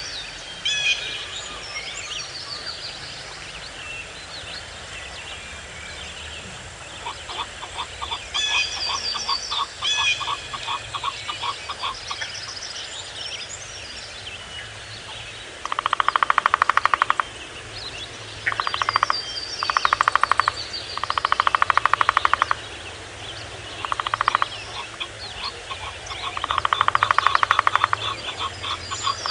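Forest wildlife calling: small birds chirping in the first half, then loud rattling, rapidly pulsed calls in repeated bouts of one to two seconds each.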